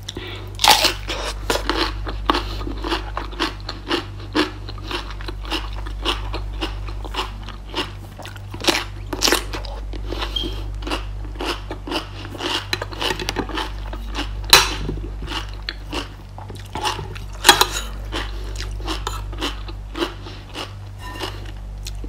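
A person chewing crisp romaine lettuce close to the microphone: a steady run of crunches and bites, with a few louder crunches near the start and about two-thirds of the way through. A low steady hum sits underneath.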